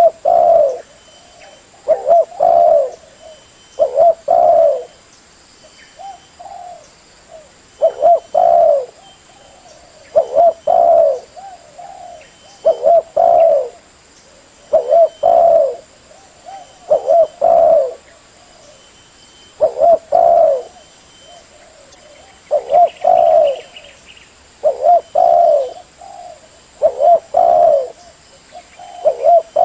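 Spotted dove cooing: a short phrase of two or three low coos, repeated about every two seconds.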